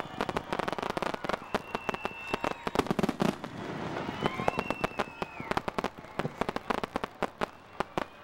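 Aerial fireworks crackling and popping in a rapid, dense barrage. Two high whistles ring out, one about two seconds in and one about four and a half seconds in, each lasting around a second.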